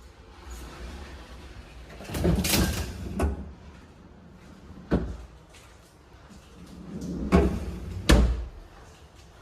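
Haier refrigerator doors being opened and pushed shut, with thumps about three seconds in and again around eight seconds in, and a sharp click near five seconds.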